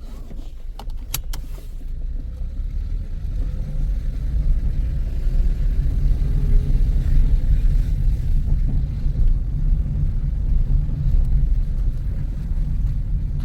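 Toyota with an MMT semi-automatic gearbox setting off on a test drive, heard from inside the car: a few sharp clicks in the first two seconds, then a low engine and road rumble that builds and holds steady as the car gets under way.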